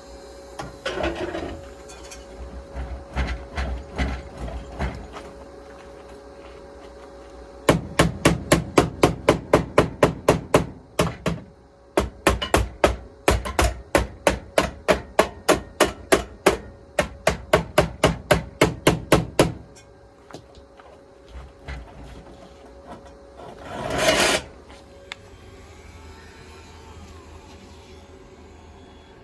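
Hammer blows, most likely on the UAZ cab's body during repair: a few scattered knocks, then two long, fast, even runs of strikes at about four to five a second. Near the end comes one loud, short rushing noise.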